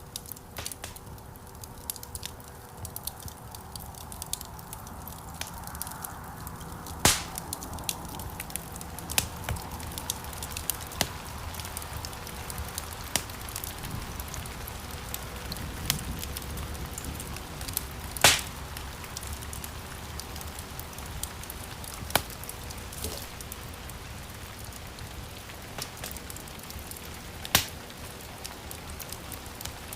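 Wood fire crackling in a fireplace: a steady low rush of flame under a dense patter of small crackles, with a few sharp, louder pops about seven seconds in, about eighteen seconds in and near the end.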